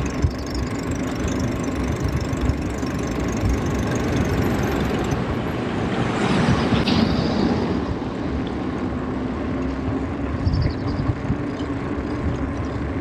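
Wind buffeting the microphone of a moving bicycle, a steady low rumble, with a swell of broader rushing noise about halfway through.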